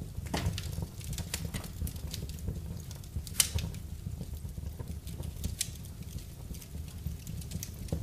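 Wood fire burning in a fireplace, crackling with irregular sharp pops over a low steady rumble. One pop about three and a half seconds in is louder than the rest.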